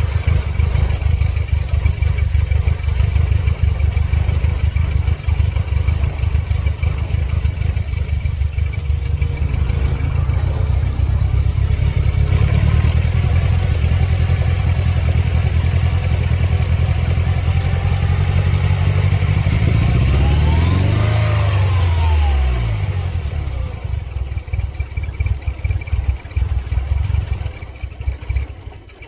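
1999 Mercedes-Benz C230 Kompressor's supercharged 2.3-litre four-cylinder engine running, revved up once and back down about two-thirds of the way in. It then runs unevenly, with its loudness rising and falling, and drops off near the end. The car has a serious engine fault that flashes its check engine light.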